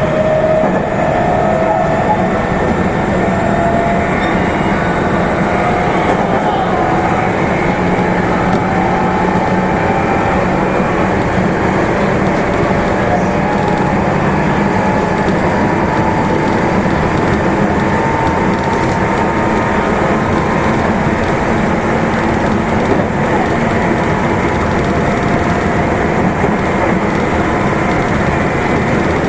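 Meitetsu Nagoya Main Line limited express train running at speed, heard from inside the car: a steady rumble of wheels on rail with a faint motor whine that shifts slowly in pitch.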